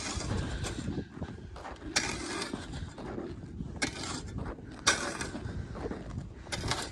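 Footsteps crunching through crusted, icy snow: a few sharp crunching steps about a second or two apart, over a low rustle.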